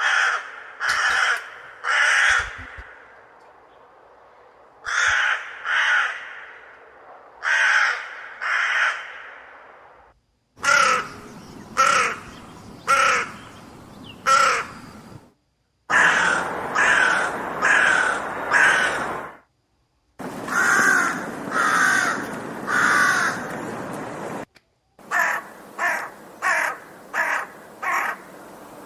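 Crows cawing over and over in runs of two to six caws, some of them quick. The sound cuts off sharply between several of the runs.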